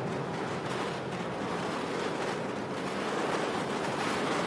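Steady rushing of strong wind, an even noise without pitch.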